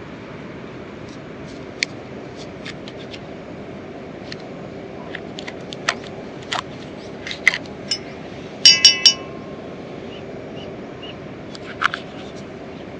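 Scattered taps and clinks of camp cookware, with three quick ringing clinks about two-thirds of the way through as something hard strikes a metal or glass vessel, over a steady hiss of rain.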